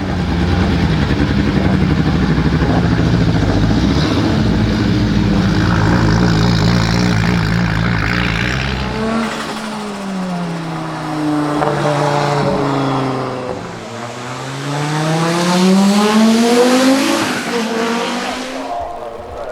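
Turbocharged five-cylinder Audi racecar engine running loud and hard. About halfway through its note falls away for a few seconds, then climbs steadily again as the revs rise.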